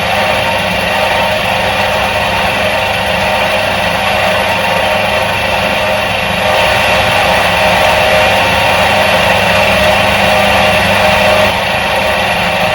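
Electric motor of a 1977 Soviet washing machine running with a steady hum, a little louder for a few seconds past the middle.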